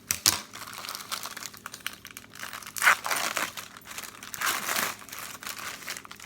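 A package of graham crackers being torn open, its plastic wrapper crinkling and tearing in irregular rustles, loudest about three seconds in and again about four and a half seconds in.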